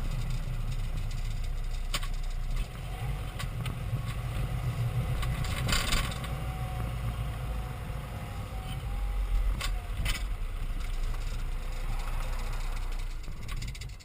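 BMW E46 320d Touring driving with a steady low road rumble, broken by a few sharp knocks: a couple of single ones, a short cluster about six seconds in, two close together around ten seconds. The knocking is the rear-axle clatter that the owner traced to loose no-name brake pads with play.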